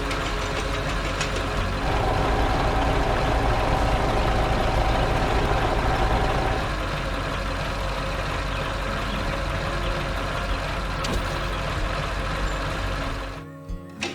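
Excavator engine running steadily, with a higher steady tone joining from about two seconds in to about six and a half seconds in; the sound drops away abruptly shortly before the end.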